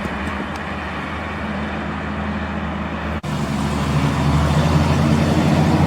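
Classic car engine running steadily. It breaks off for an instant about three seconds in and comes back a little louder.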